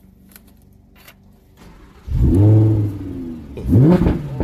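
Lamborghini Huracán's V10 engine starting about two seconds in with a loud flare of revs that rises and settles, then a sharp blip of the throttle near the end, heard from inside the cabin.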